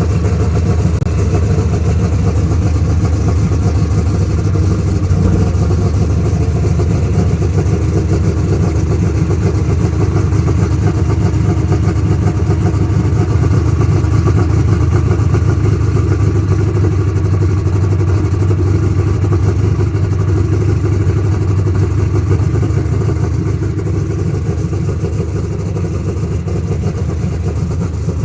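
Engine of a Massey Ferguson Super Stock Open class pulling tractor running steadily as it warms up, easing a little quieter near the end.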